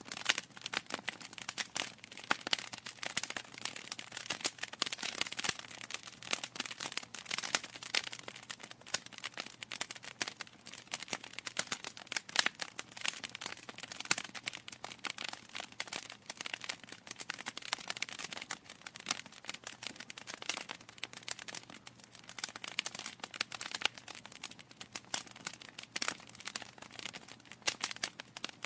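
Wood fire crackling steadily, a dense run of small irregular pops and snaps from burning logs.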